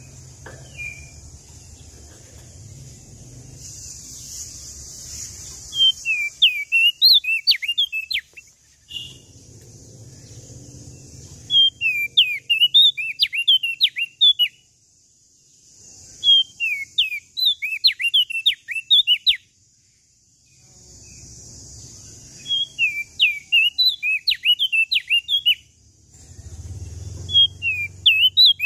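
Small songbird (prenjak daun Lombok, also sold as opior jambul) singing in bursts: a quick run of sharp, falling chirps lasting about two and a half seconds, repeated five times a few seconds apart.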